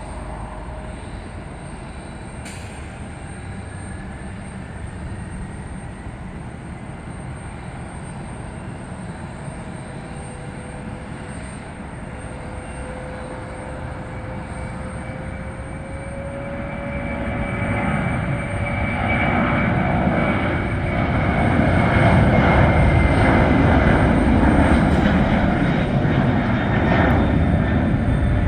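Airbus A300-600 freighter's twin turbofan engines at takeoff power: a steady jet roar with a whine that slowly rises in pitch, growing much louder over the second half.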